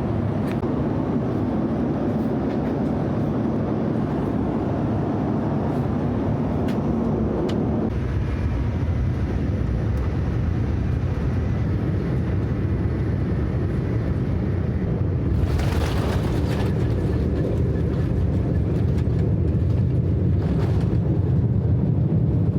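Cabin noise inside a Boeing 787-9 airliner: a steady low rumble of the aircraft that eases slightly about a third of the way through, with a brief hiss about two-thirds through.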